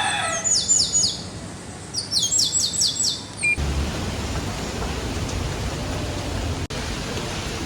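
A small bird calls in two quick runs of sharp, falling chirps. About three and a half seconds in, the sound cuts suddenly to a steady hiss of rain.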